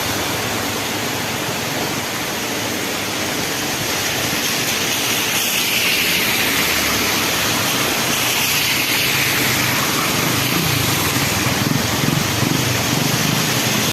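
Heavy rain falling in a steady loud hiss, with a low engine rumble underneath that grows stronger in the second half.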